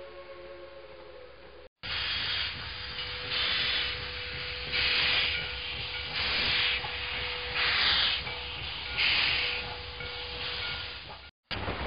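Steam locomotive working slowly: a hissing exhaust puff about every second and a half over a steady tone. It is preceded by the fading tail of a train whistle and cuts off near the end.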